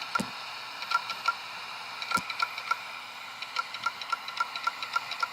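Hard disk drive of a Dell Inspiron 530s clicking repeatedly, several short clicks a second over the computer's steady running noise, with one louder knock about two seconds in. The owner thinks the drive is damaged, perhaps the platter, and the computer is stuck at its boot screen.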